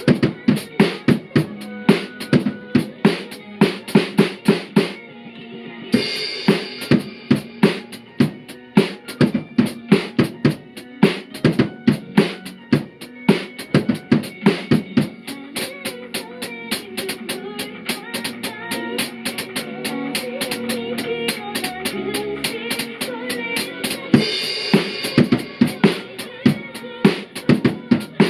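Acoustic drum kit played along to a pop song's backing track: a steady kick-and-snare beat with busy cymbal strokes. There is a short break in the drumming about five seconds in, and lighter playing through the middle stretch.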